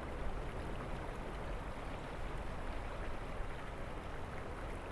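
River water rushing steadily through a narrow rock gorge, an even, unbroken noise.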